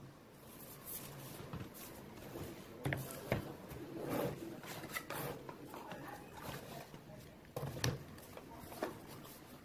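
Irregular knocks, clicks and rustling, with the loudest knocks about three seconds in and again near the end.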